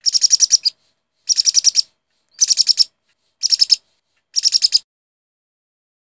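Bird chirping in five short bursts of rapid, high-pitched twitters, about one burst a second.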